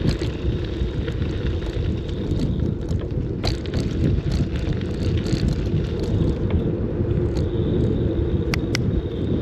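Steady low rumble of a bicycle ride: wind on the microphone and tyre noise on the road, with a few short clicks and rattles from the bike.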